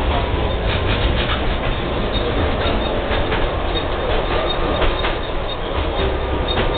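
Tatra tram running along its track, heard from inside the driver's cab: a steady low rumble with irregular clicks and clacks as the wheels pass over rail joints.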